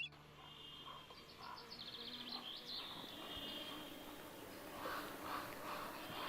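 Faint outdoor ambience with wild birds calling: a run of high, rapid chirps in the first half, then a few lower, harsher calls near the end.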